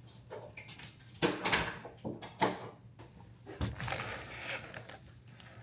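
Things being handled in a small room: a few sharp knocks and clatters with short bursts of rustling, loudest in the first half.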